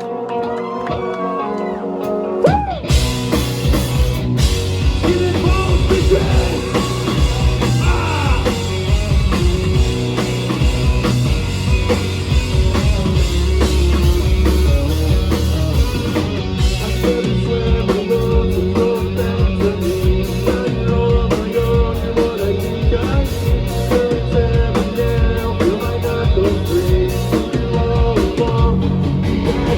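Live rock band playing: a guitar intro for the first few seconds, then drums, bass and guitars come in together and carry on at full volume.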